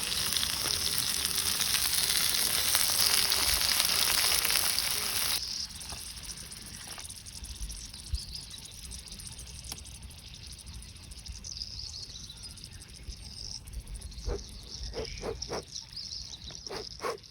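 Food sizzling in a hot pan, a loud, even hiss that stops abruptly about five seconds in. Then a quiet outdoor background, with a run of short calls near the end.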